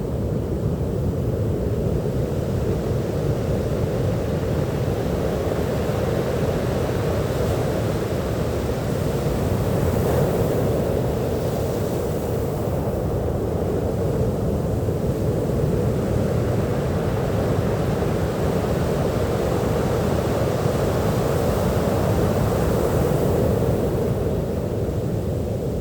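Sea surf washing steadily onto a beach, a continuous low wash that swells a little about ten seconds in and again near the end.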